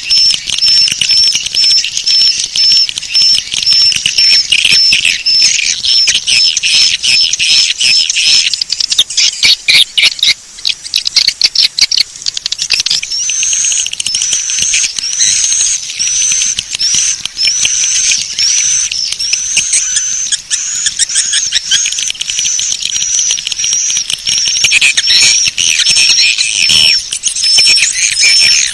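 Swiftlet call-lure recording: rapid, high-pitched chirps repeating several times a second, broken about nine seconds in by a few seconds of fast clicking rattle, then turning into rising-and-falling twittering chirps.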